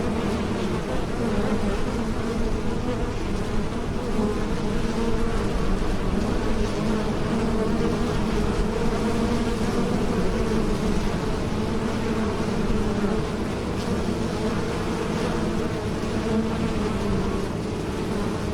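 Bees buzzing in flight, a steady dense hum with a wavering pitch, as from many bees together.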